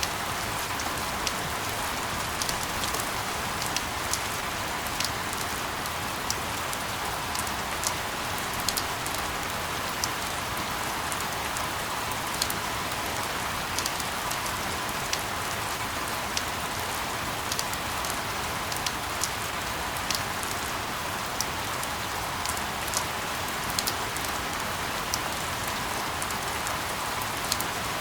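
Steady rain: an even hiss with many irregular, sharp drop ticks.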